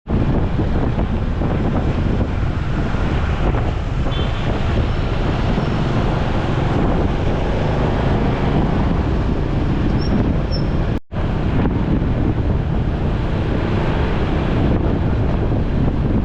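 Wind buffeting the microphone of a moving motorcycle, over engine and road noise. The sound drops out briefly about eleven seconds in.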